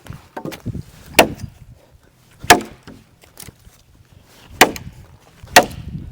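Machete blade chopping into a sycamore log: four sharp, loud strikes at uneven intervals of one to two seconds, with lighter knocks of wood between them.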